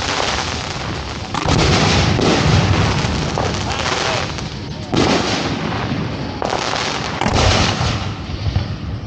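Fireworks show being fired, heard from the firing site: shells launching and bursting in a dense, continuous barrage. Fresh loud volleys come in about a second and a half in, again at five seconds, and twice more between six and a half and seven and a half seconds.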